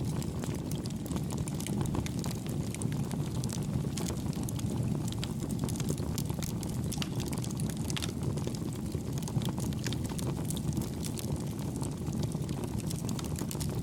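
Campfire burning steadily: a low rumble of flame with many small, soft crackles and pops scattered through it, kept gentle with little change in loudness.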